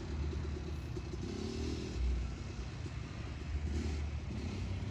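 Motorcycle engine running as it is ridden, its pitch swelling and easing off a few times as the throttle is opened and closed.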